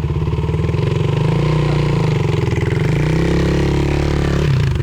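A 450cc single-cylinder sport quad's engine running and being revved, its pitch rising and falling, while it is run to check a clanking from the drive. The riders put the noise down to a bad chain or front sprocket, probably missing a tooth.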